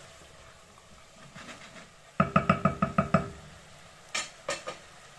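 A utensil tapped rapidly against a cooking pot: a quick run of about eight ringing metal taps about two seconds in, then two sharper clicks a second later.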